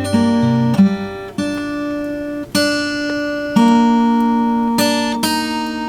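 Acoustic guitar strummed slowly, each chord left to ring before the next, about one chord a second.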